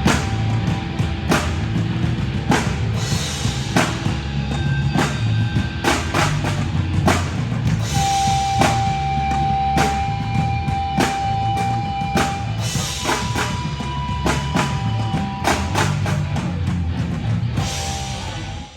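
Live rock band playing an instrumental passage: pounding drum kit with cymbal crashes, bass and guitar, with a long held note in the middle. The song stops abruptly at the very end.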